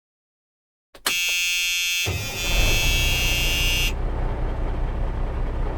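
A loud, harsh buzzing tone starts about a second in and stops just before the four-second mark; a low rumble joins it about two seconds in and carries on after the tone stops.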